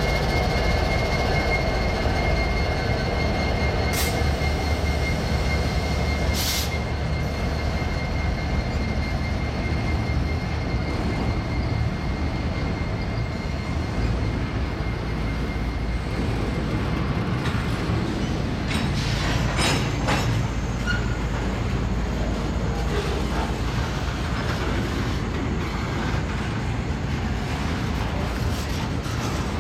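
Norfolk Southern intermodal freight train rolling past close by, its trailing diesel locomotive and then flat and well cars loaded with highway trailers: a steady, even rumble of steel wheels on rail. A thin, steady high whine runs through the first half, and a few sharp clanks come about 4 and 6 seconds in and again around 18 to 20 seconds in.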